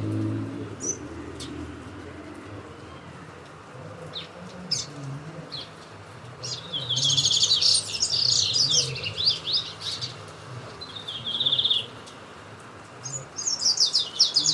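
Small songbirds, a tucumanito and a corbata, singing: scattered single high chirps, then a fast warbled song phrase about six seconds in lasting around three seconds, a short trill, and another burst of song near the end.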